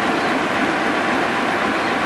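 Diesel locomotive and its coupled passenger coach moving slowly past, a steady loud mechanical noise of engine and running gear.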